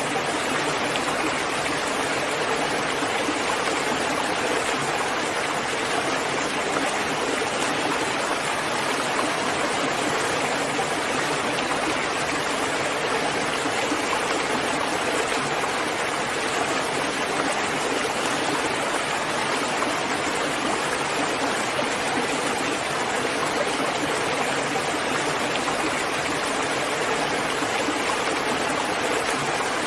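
Steady rainfall, an even hiss of falling water.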